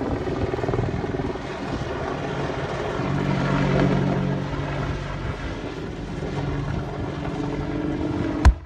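AH-64 Apache attack helicopter flying a display, its rotor and engines making a steady roar that swells around the middle. A single sharp bang comes near the end.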